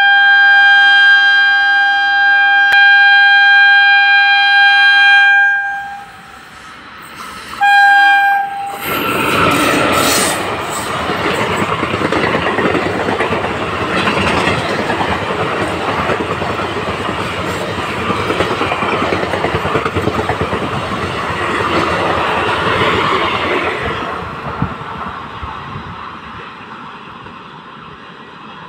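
Electric locomotive's horn sounding one long blast of about five seconds, then a short second blast. The express then passes at speed, its wheels clattering over the rails, and the sound fades as the train draws away.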